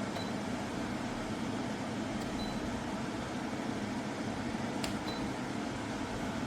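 Portable air conditioner running with a steady fan-and-compressor hum and rush of air, with a couple of faint ticks.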